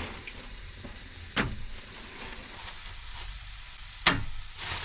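Steak slices, onion and peppers sizzling on a camp cooker, with two sharp clacks, about a second and a half in and again near the end.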